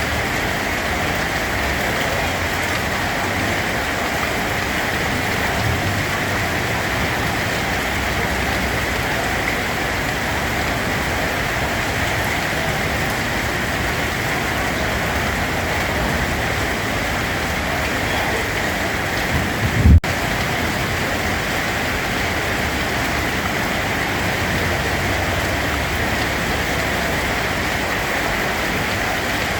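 Steady rain falling, an even hiss with no let-up. A brief low thump stands out about two-thirds of the way in.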